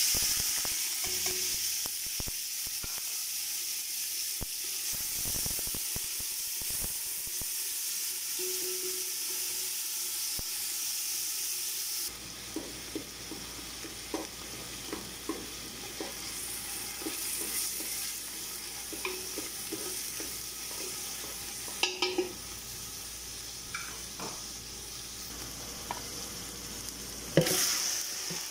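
Chopped onion sizzling in hot oil in a stainless-steel pot, loudest as it hits the oil at the start, with a wooden spatula scraping and tapping against the pot. Near the end, raw chicken pieces drop in with a loud thud and a fresh burst of sizzling.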